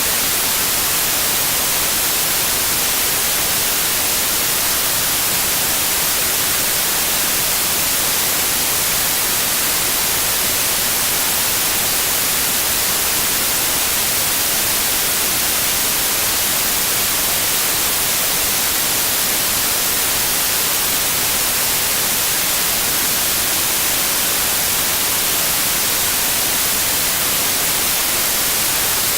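Steady synthetic white noise, an even, unbroken hiss strongest in the highs, with a faint steady 528 Hz tone beneath it.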